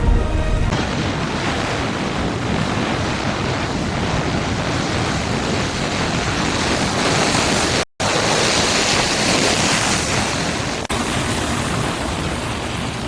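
Steady, loud rushing noise of a storm, wind and surging water, broken by a brief dropout about eight seconds in and changing abruptly near eleven seconds.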